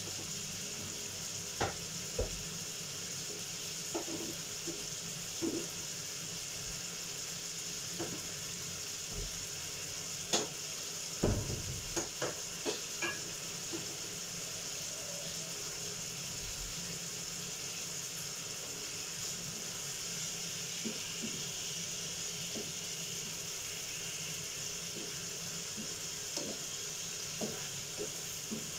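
Chicken pieces frying in a pan on a gas stove: a steady sizzle with scattered pops and crackles, the loudest cluster about ten to thirteen seconds in. Near the end a wooden spatula stirs the chicken in the pan.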